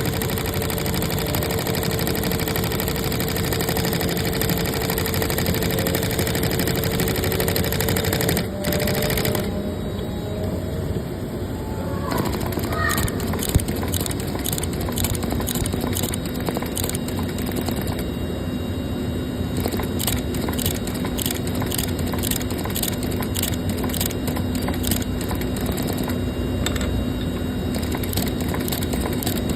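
Industrial bead and sequin sewing machine running, a steady rapid clatter of needle strokes with a faint hum, dipping briefly about a third of the way in.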